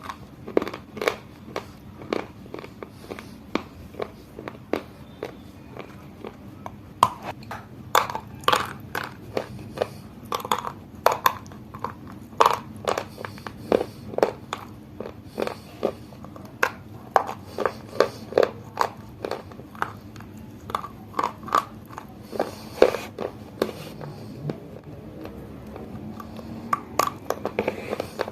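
Close-miked dry crunching: a person biting off and chewing a hard, brittle mineral snack such as pressed chalk or baked clay, in irregular flurries of sharp crunches with short, quieter stretches between them.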